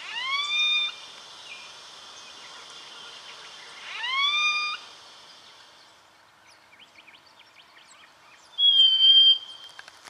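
Brown treecreeper calling: two loud calls about four seconds apart, each sweeping up in pitch and then holding, followed near the end by a shorter, steadier, higher note.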